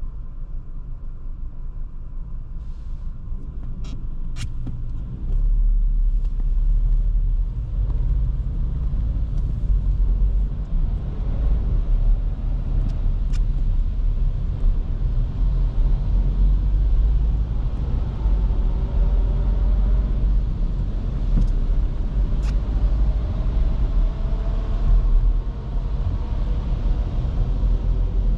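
Inside the cabin of a 2023 Škoda Kamiq 1.0 TSI on the move: a steady low engine and road rumble that gets louder about five seconds in, with faint engine notes rising and falling later on. A few short sharp clicks sound over it.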